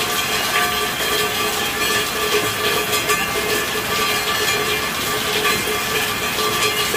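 Steady rain falling, a dense, even patter of many drops that holds level without let-up.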